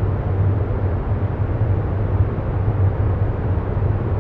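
Steady, unchanging low rumbling noise with a deep hum underneath: the ambient background sound bed that runs continuously beneath the spoken affirmations.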